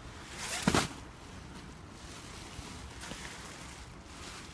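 A brief whoosh of rushing noise about two-thirds of a second in, then a faint steady background hiss.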